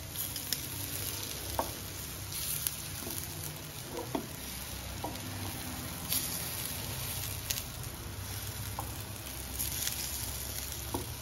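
Spinach-and-paneer kebab patties sizzling steadily in oil on a hot nonstick pan, with a few short taps and scrapes of a wooden spatula as the patties are turned over.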